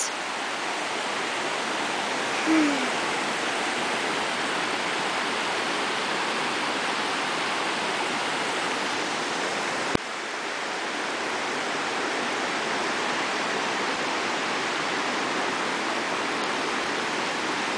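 Rushing floodwater of a storm-swollen stream, a steady loud wash of water. About halfway through there is a click and a slight drop in level.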